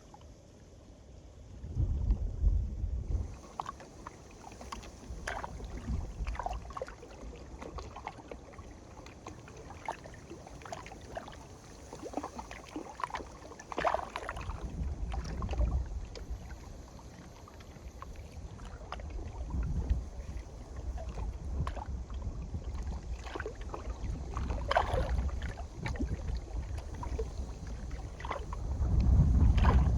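Strong wind gusting across the microphone, with small waves lapping and splashing against the lakeshore in irregular slaps.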